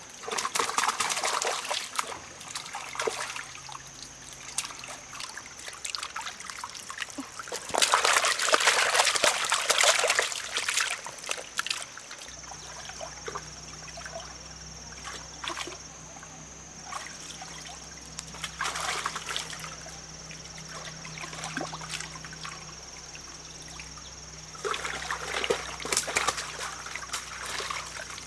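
Water splashing and trickling in four separate bursts, the loudest in the middle, over a steady thin high tone.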